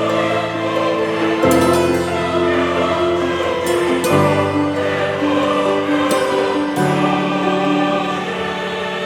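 Background music: a choir singing slow, sustained chords that change every second or two.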